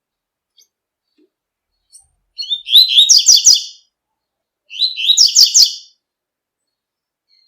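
Double-collared seedeater (coleiro) singing the 'tui-tui' song type: two short phrases of fast, repeated high notes, the second starting about a second after the first ends.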